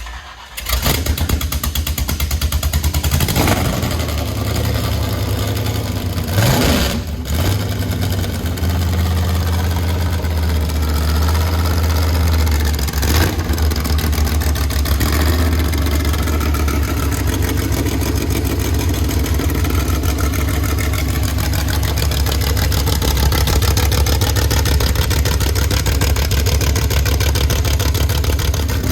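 A vehicle engine starts about half a second in and settles into a loud, deep, steady run. It is blipped up briefly a few times in the first several seconds.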